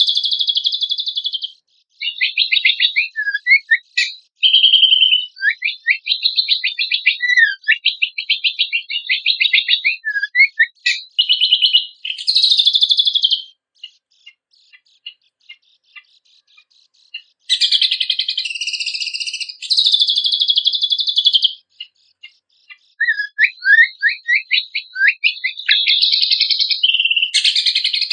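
Cucak kombok (kecial kombok) songbird singing: phrases of rapid, high-pitched trills and quick series of chirps, with a pause of a few scattered notes about halfway through before the song resumes.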